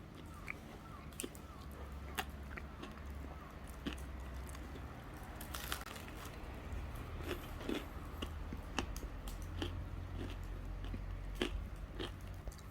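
A person eating, with irregular crunching and chewing close to the microphone over a steady low hum.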